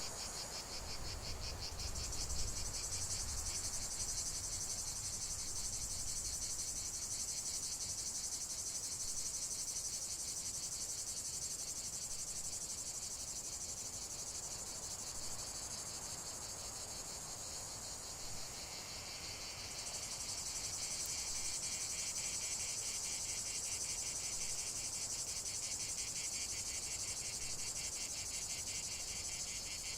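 A chorus of crickets trilling steadily in a rapid, high-pitched pulse. About two-thirds of the way through, a second, lower-pitched pulsing trill joins in.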